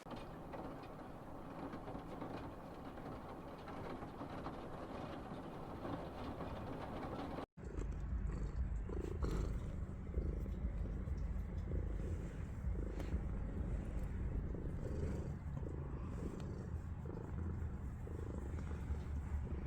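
A domestic cat purring close up: a low rumble that swells and eases about once a second with its breathing. It is preceded for the first seven seconds by a steady hiss that stops abruptly.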